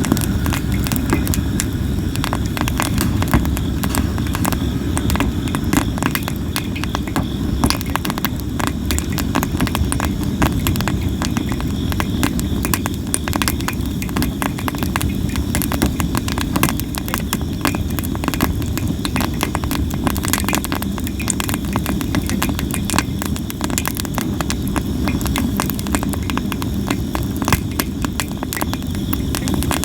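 Sawara (Japanese cypress) firewood burning in an open fire, crackling and popping without pause over a low, steady rumble.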